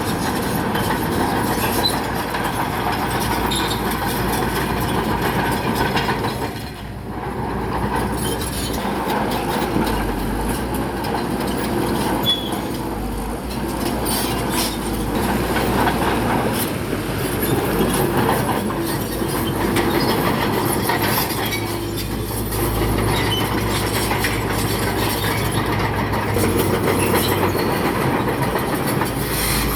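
Crawler bulldozer working, its steel tracks clanking and squealing over the steady engine noise as it pushes rock, with many sharp clicks throughout. It briefly drops quieter about seven seconds in.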